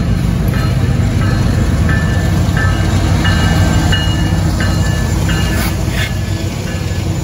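CSX freight train's lead diesel locomotives passing close by, a loud, steady, deep engine rumble. Short high-pitched squeals come and go through it, typical of wheels on the curving track.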